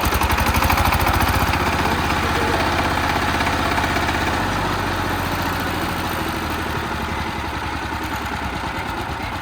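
Single-cylinder diesel engine of a Chinese-made two-wheel farm tractor running just after being hand-started. It settles from a slightly faster run into a steady idle, getting a little quieter as it slows.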